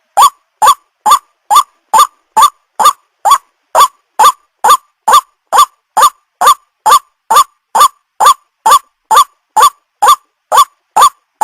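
White-breasted waterhen (ruak-ruak) calling: a fast, even series of short rising calls, a little over two a second.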